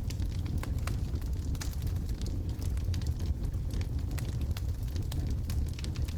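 Wood logs burning in a fireplace: frequent irregular sharp crackles and pops over a steady low rumble of the fire.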